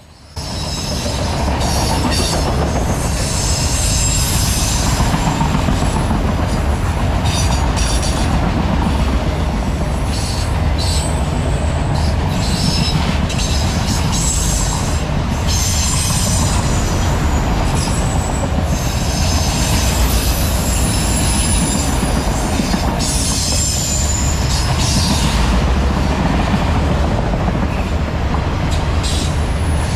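CSX freight train rolling past, a steady rumble with its car wheels squealing shrilly on and off and clicking over the rail joints.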